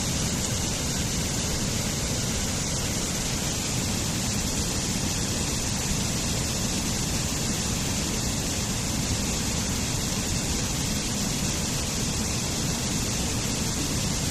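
Waterfall rushing steadily and evenly, a deep rumble under a bright hiss of falling water.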